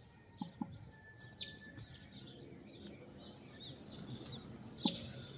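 Small birds chirping, many short high notes repeated throughout, faint. A few soft clicks are heard about half a second in and again near the end.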